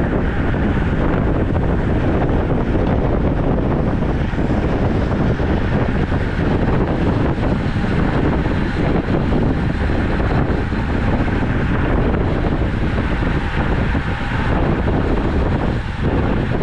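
Wind rushing over the microphone of a camera on a moving road bike: a loud, steady, dull rush with no breaks.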